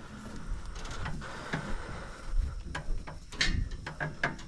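Scattered metal clanks and knocks of a tie-down chain and binder being worked loose on a trailer.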